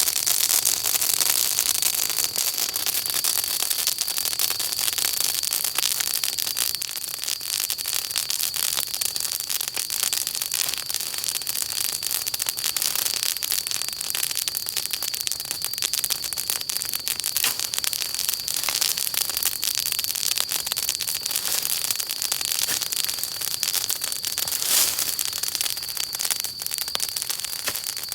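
Wood campfire burning, with dense crackling and popping throughout and a steady high-pitched hiss underneath; one louder pop stands out near the end.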